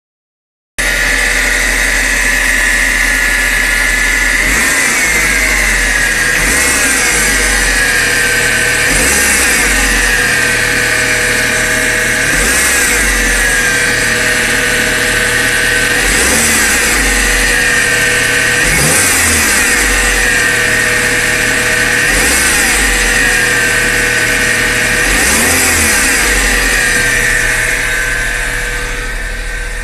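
1995 Honda Civic engine with a strange high-pitched whine, blipped repeatedly: the whine rises and falls in pitch with each rev, several times over, about every two to three seconds.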